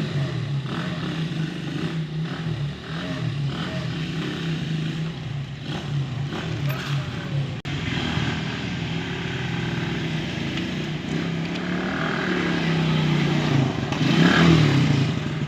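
Polaris quad bike's engine running, its pitch rising and falling as it is throttled up and down.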